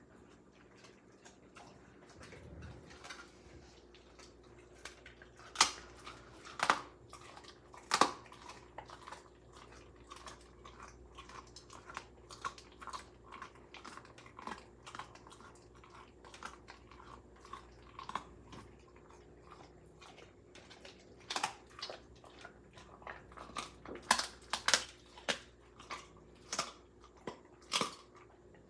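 A dog chewing a raw chicken leg, with irregular sharp crunches of the bone: a few loud ones about six to eight seconds in and a quick run of them over the last seven seconds.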